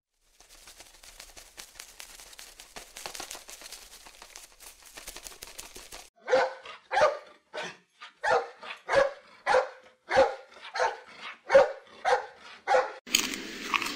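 A dog barking about eleven times in a steady run, roughly three barks every two seconds, after several seconds of faint crackling.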